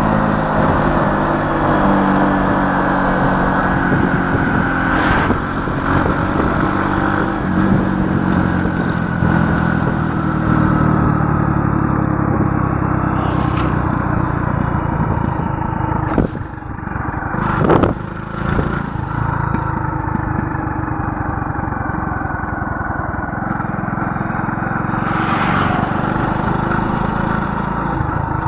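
A motor vehicle's engine running steadily on the move, with two sharp knocks or rattles about two-thirds of the way through.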